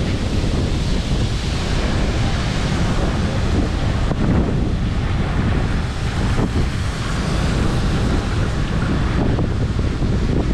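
Wind buffeting the microphone: a steady, loud rushing noise with an uneven low rumble.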